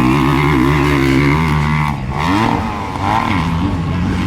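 Motocross bike engines running at racing speed: a steady drone for the first second or so, then the pitch rising and falling several times as the throttle is opened and closed.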